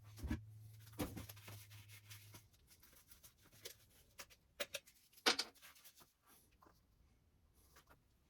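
A scattering of light clicks and knocks, the sharpest about five seconds in, with a low steady hum that stops after about two seconds.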